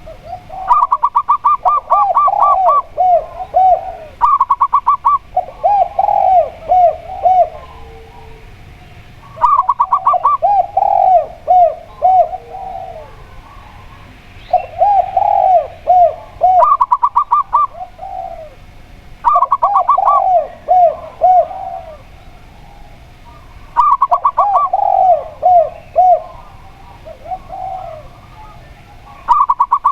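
Zebra dove and spotted dove cooing in turn, several times over. Short runs of rapid, higher coo notes alternate with lower, looping coo phrases.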